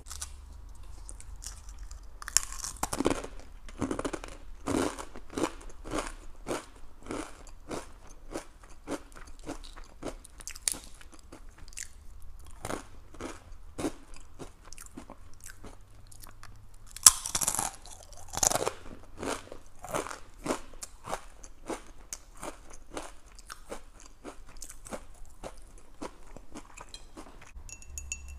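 Crisp crunching and chewing of a fortune cookie, about two chews a second, with louder bites a few seconds in and again past the middle.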